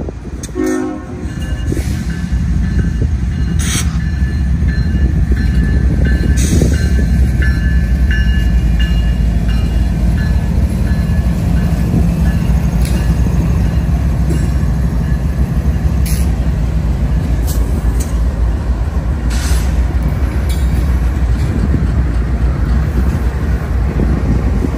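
CSX freight train passing close by, its lead GE diesel-electric locomotives, including a C40-8WM, running with a loud low engine drone. A short horn blast sounds about half a second in, and there is intermittent high wheel squeal and a few sharp clanks from the rails.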